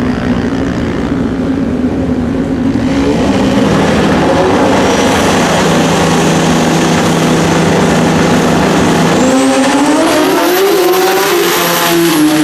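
Pro Xtreme drag-racing motorcycle engines running loud at the starting line, getting louder about three seconds in. About nine seconds in the engine pitch rises sharply as the bikes launch and accelerate down the strip.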